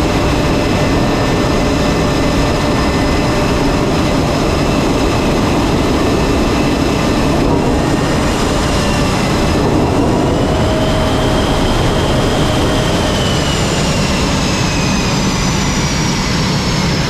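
Jet aircraft engines running on a carrier flight deck: a loud, steady rush with high whining tones, one rising and falling about two-thirds through and another sliding down near the end.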